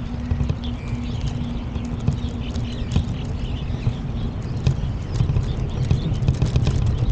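Walking footsteps on a path, irregular sharp steps over a steady low rumble, with a low hum that stops about four and a half seconds in.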